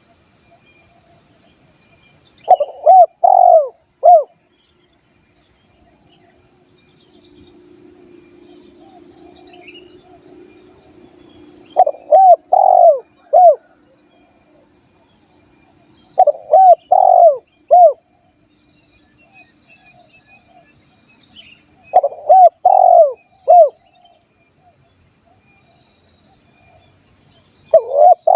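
Spotted dove (tekukur) cooing: five phrases of three to four short coos each, coming every 5 to 6 seconds, the last running past the end. Throughout there is a steady high drone of insects.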